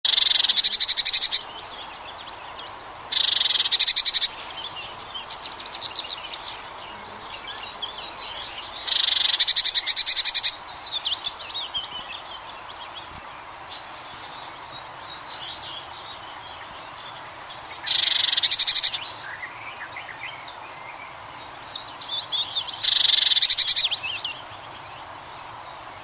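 Small garden birds calling: five loud rapid trills, each about a second long and a few seconds apart, with softer high chirps in between.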